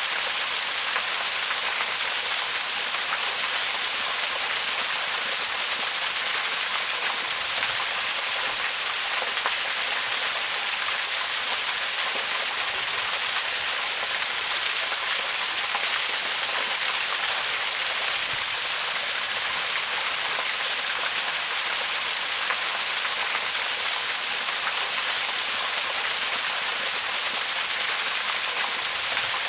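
Waterfall rushing steadily: an even, hissy wash of falling water, heaviest in the high range, with no breaks.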